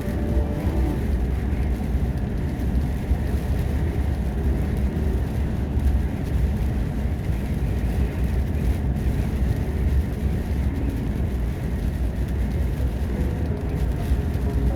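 A truck driving along, heard from inside the cab: a steady low engine and road rumble.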